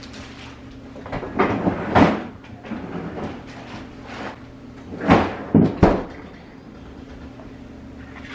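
Kitchen items being put away: containers handled and a cupboard or storage door shut, with a cluster of knocks and rustles about a second and a half in and another around five to six seconds, over a steady low hum.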